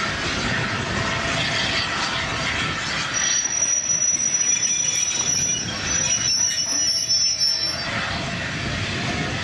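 Steel train wheels squealing on the rails over the steady running noise of the train. The high, thin squeal starts about three seconds in and stops near the end.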